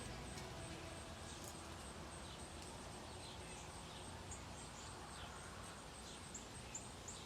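Faint wild bird chirps, short high notes that slide downward, several in quick succession near the end, over a steady outdoor background hiss.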